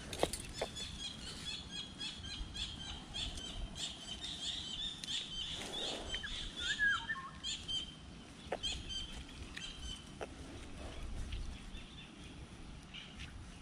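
Birds chirping: a quick series of short, high notes for the first eight seconds or so, with one lower, pitch-bending call near the middle. A few sharp clicks stand out, the loudest just after the start.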